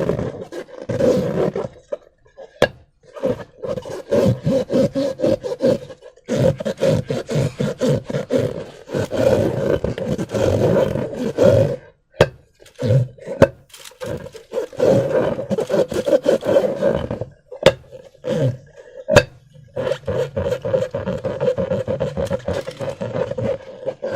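Rubber balloons rubbing and squeaking against each other and against hands, a rapid grinding squeak in long stretches with short pauses between them. A few sharp clicks or snaps stand out among the squeaks.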